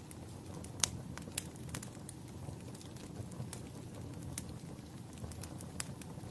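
Wood fire crackling in a fireplace: irregular sharp pops and snaps, the loudest a little under a second in, over a steady low rumble.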